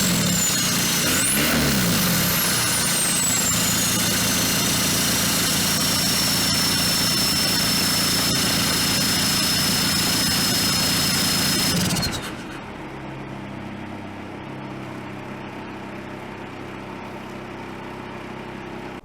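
Volkswagen TDI turbodiesel engine idling in a Toyota 4Runner through its newly built exhaust, with a brief rise and fall in engine pitch about a second and a half in. A high whine falls in pitch and then holds steady. About twelve seconds in, the sound drops noticeably and turns duller, and the idle carries on.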